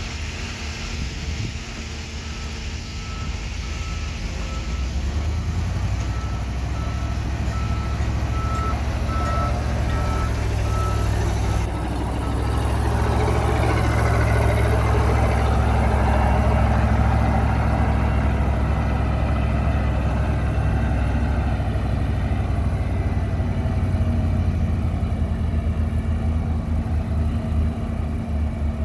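Heavy diesel machinery running steadily, working harder and louder about halfway through. A reversing alarm beeps repeatedly at one pitch for several seconds in the first half.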